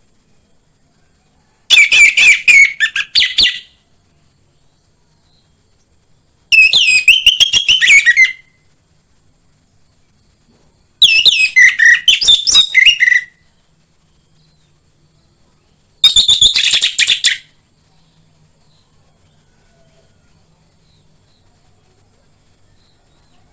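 Orange-headed thrush (anis merah) song: four loud phrases of rapid, varied whistled notes, each lasting about a second and a half, spaced a few seconds apart, over a faint steady high hiss.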